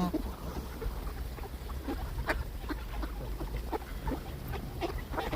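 A flock of ducks and geese calling: short, scattered quacks and honks, many birds at once, over a steady low rumble.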